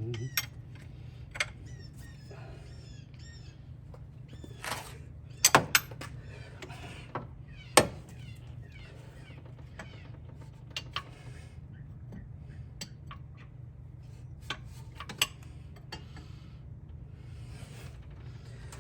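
Hand tools and metal parts clicking and knocking now and then, a few sharp knocks louder than the rest, over a steady low hum. A few short chirps about two to three seconds in.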